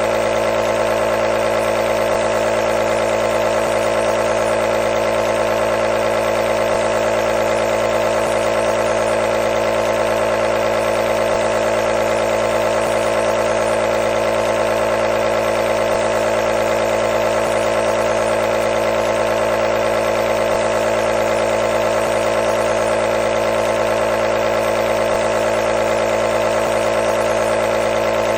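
Compressor nebulizer running steadily: a constant machine hum that holds the same pitch and level throughout.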